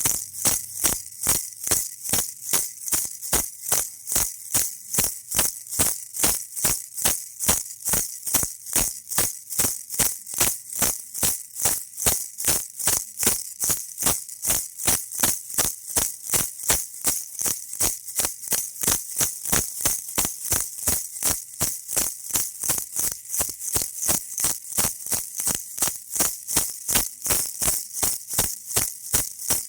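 Baby rattle shaken in a steady, even rhythm, about three crisp shakes a second.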